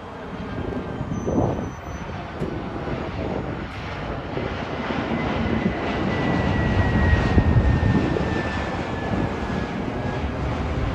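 Jet airliner on approach passing low overhead: the engine noise swells to a peak about seven seconds in and then eases off, with a high engine whine falling slowly in pitch as it goes by.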